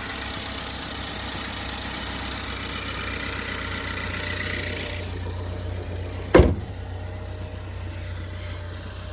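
2014 Ford Focus ST's 2.0-litre turbocharged four-cylinder, fitted with a Roush air filter, idling steadily after a warm-weather start. A single sharp bang about six seconds in.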